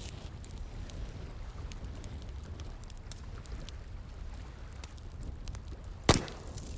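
Campfire crackling: scattered small snaps over a low, steady rumble, with one loud pop about six seconds in.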